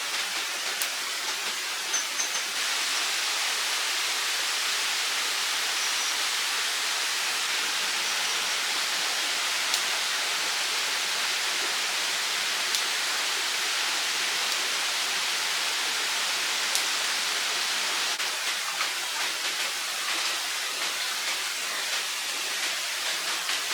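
Steady rush of running water, with a few faint high chirps in the first half and occasional small sharp ticks.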